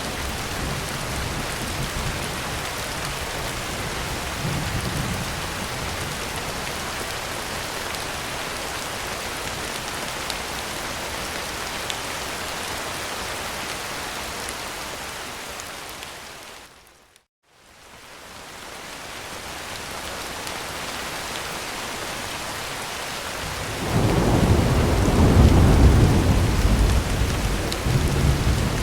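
Heavy rain drumming steadily on a tin roof, with a low roll of thunder rumbling in about 24 seconds in and lasting several seconds. Around 17 seconds in, the rain fades down to a moment of silence and fades back up.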